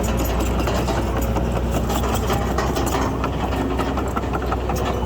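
Diesel engine of heavy earthmoving machinery running steadily at a low idle-like pace, with scattered light clicks and rattles over the hum.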